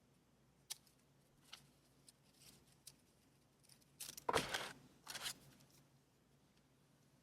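Paper being handled in a journaling session: a few light ticks, then two louder rasping strokes about four and five seconds in, the first the loudest.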